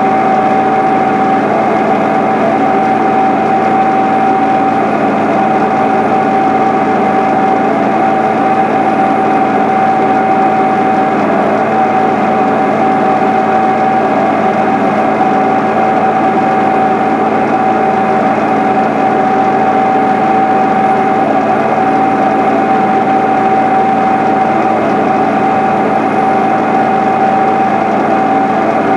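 The 1993 John Deere 8970 tractor's six-cylinder Cummins diesel runs steadily while pulling a Turbo-Till through the field. A steady whine sits over the engine.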